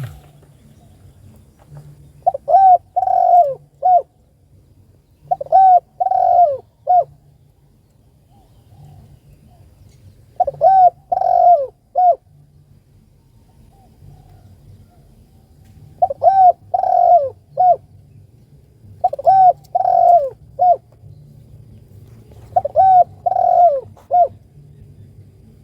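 Spotted dove cooing: six phrases, each a short run of three or four mellow notes, repeated every few seconds with pauses between.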